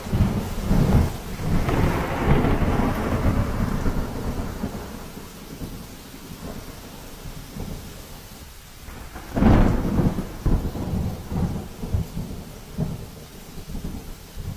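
Thunderstorm with rain: a long roll of thunder that fades over the first few seconds, then a sudden crack about nine and a half seconds in that rolls on into more rumbling.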